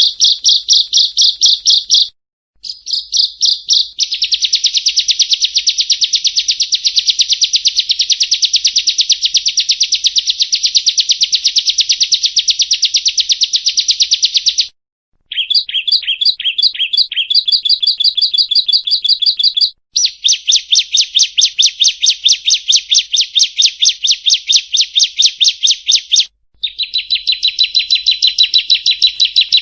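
Prinia (perenjak) song: a fast, dry trill of high repeated notes, many per second, in long bouts with short breaks between them.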